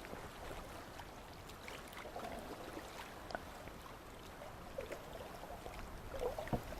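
Faint river water sounds from a kayak under way: soft paddle dips and drips with a low hiss of moving water, and a few small splashes.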